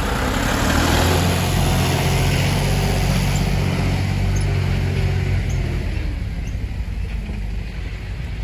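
Hino Mega six-wheel truck's diesel engine revving hard under load as it tries to reverse out of mud; the pitch climbs in the first second, holds, then eases off about five and a half seconds in.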